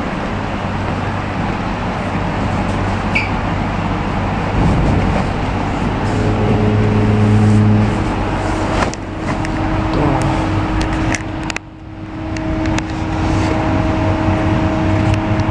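Inside the passenger saloon of an ICMm electric multiple unit train under way: a steady running rumble, joined by steady humming tones from about six seconds in and a few clicks. The noise drops suddenly near twelve seconds in, then builds back up.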